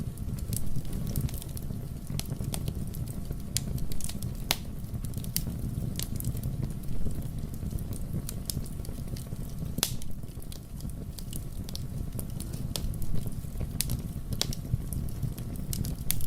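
Wood fire burning in a fireplace: a steady low rush of flames with irregular crackles and pops, a few louder snaps scattered through.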